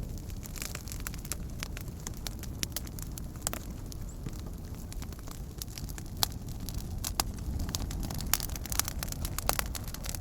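Wood campfire burning: a steady low rush of flame with frequent sharp crackles and pops from the burning wood, at irregular intervals.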